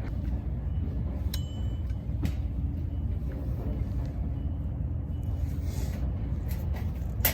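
Steady low rumble, with a few sharp clicks, one about a second in, one a second later and one at the very end.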